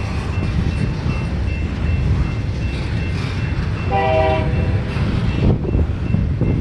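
Union Pacific freight locomotive's air horn sounding one short blast about four seconds in, over a heavy low rumble of strong wind buffeting the microphone and the passing train.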